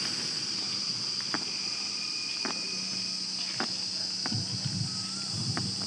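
Crickets chirring in a steady high-pitched chorus, with a few scattered faint clicks and a low hum underneath.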